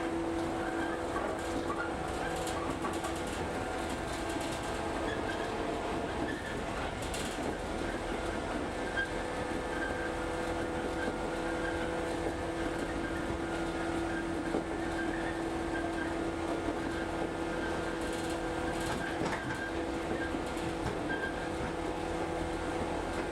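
Cabin sound of an electric local train running along the line: a steady hum with the rumble of wheels on the rails.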